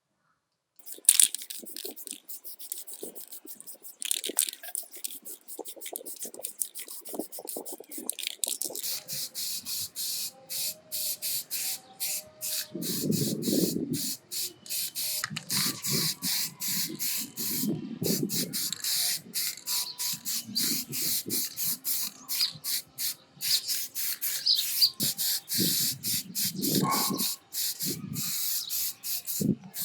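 Quick, uneven strokes of abrasive rubbing, as in hand-scrubbing or sanding a small metal part, with dull handling knocks in between.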